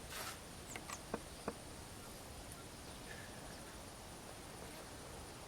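Faint, steady, high-pitched insect trill in the bush, with a few brief faint chirps or clicks in the first second and a half.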